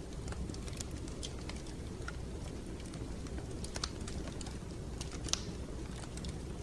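Wood fire in a fireplace crackling: irregular sharp pops and snaps over a steady low rumble, the loudest pop about five and a half seconds in.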